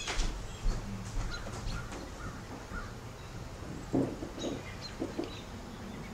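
A bird calls a few short times about four to five seconds in, over a steady low background hum.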